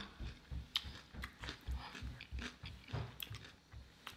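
A person chewing food with the mouth closed, close to the microphone: faint, soft, rhythmic chews about three times a second, with small wet mouth clicks.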